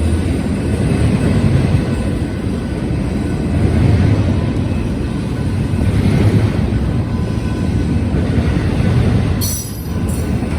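BNSF intermodal freight train rolling past with a steady, heavy rumble of wheels on rail. Near the end a brief high-pitched wheel squeal cuts through.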